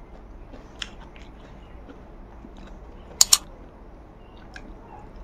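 A person chewing a mouthful of rice and soibum eronba, with faint mouth clicks and a sharp double smack about three seconds in.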